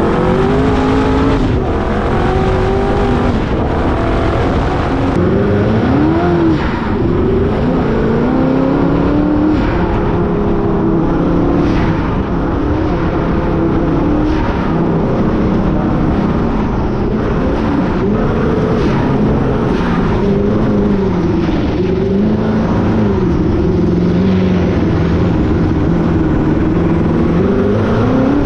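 A high-horsepower off-road car's engine running hard, its pitch climbing and dropping again and again as it accelerates, lifts and accelerates again, over a steady rushing noise.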